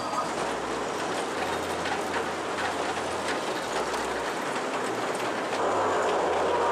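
Kurobe Gorge Railway narrow-gauge trolley train running, heard from an open-sided passenger car: a steady rumble of wheels on rail with light clicking. It gets louder near the end as the train enters a tunnel.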